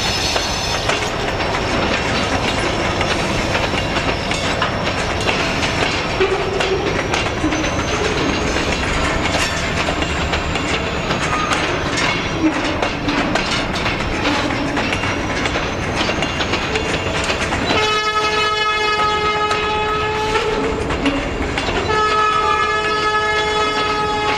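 Freight train of covered hopper cars rolling past close by: a steady rumble with wheel clatter over the rail joints. Near the end, the lead locomotive's horn sounds twice: a long blast of about three seconds, then a second blast that runs on.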